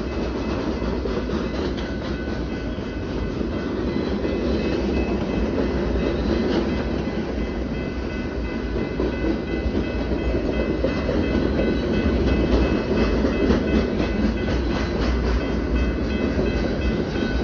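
Long freight train rolling past a grade crossing: a steady rumble of the cars, with steel wheels clacking over the rail joints. A few steady high ringing tones sound above it from a few seconds in.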